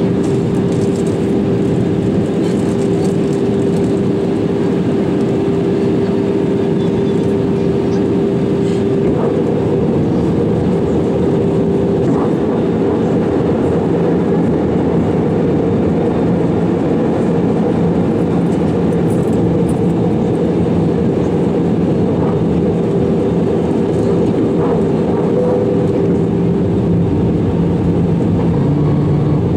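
Steady in-flight cabin noise of an Airbus A320-200 from a window seat near the wing: a continuous rush of engine and airflow noise with a steady hum. The hum's pitch shifts a little partway through, with a lower tone coming in about halfway.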